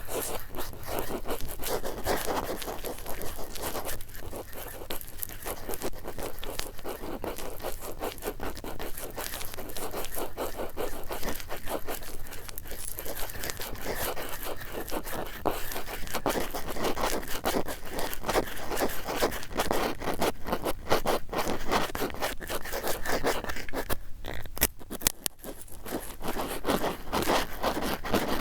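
Close-up ASMR cotton swab sounds: cotton swabs rubbed and scraped continuously, making a dense, fine scratchy crackle.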